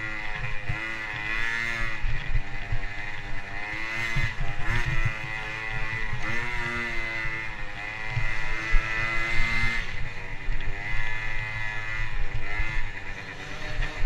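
Motocross dirt bike engine running hard, its pitch repeatedly rising and dropping as the throttle is worked and gears change.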